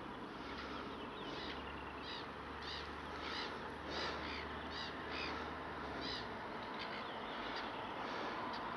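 A bird calling over and over: short high calls a little under two a second, thinning out after about six seconds.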